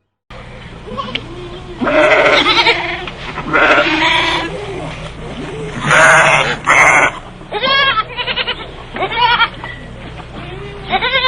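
Goats bleating repeatedly: several long, loud, wavering bleats in the first half, then shorter ones.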